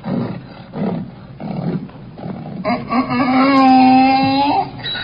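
Animal sound effect: a run of rough growling calls, then a long, steady pitched call from about two and a half seconds in.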